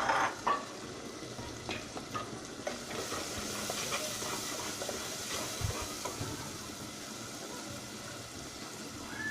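Spice paste of onion, ginger, cumin and garlic sizzling in oil in a cooking pot while a spoon stirs it, with a few clicks of the spoon against the pot right at the start. The sizzle is steady, with a hiss that grows a little about three to five seconds in.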